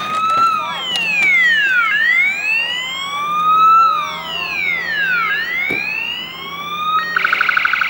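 Police car electronic siren sounding a wail, its pitch rising slowly and falling quickly about every second and a half, then switching about seven seconds in to a rapid pulsing tone.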